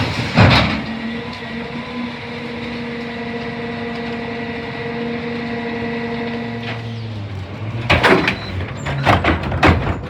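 CNG rear-loader garbage truck (CCC cab, New Way body) working its packer: a bang, then a steady hydraulic whine for about six seconds that stops, followed by a deeper engine hum and a run of loud metal clanks near the end.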